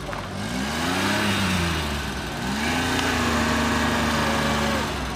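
Small car's engine revving hard while the car is pushed from behind, bogged in mud: the pitch climbs in two or three surges, is then held high for about two seconds, and drops back near the end.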